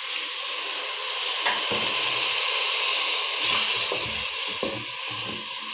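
Onion, tomato and spice masala sizzling in hot oil in a steel pot as water is added, with a wooden spatula stirring and scraping through it. The sizzle swells about three and a half seconds in.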